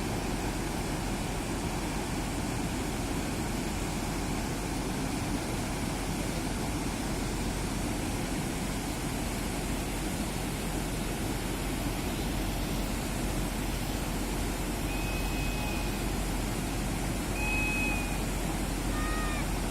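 Steady rushing of river water flowing, with a few short whistles near the end.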